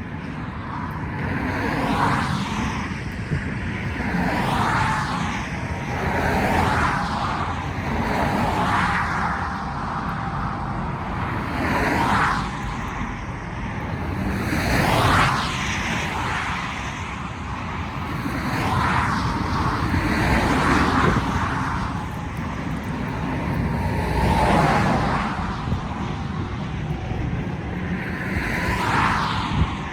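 Road traffic: a steady stream of vehicles passing one after another, each swelling and fading, over a constant low rumble.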